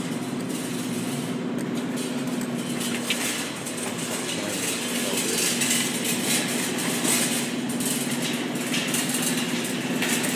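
Claw crane machine running during a play: a steady mechanical hum and whir with a low drone and a hiss, somewhat brighter in the middle.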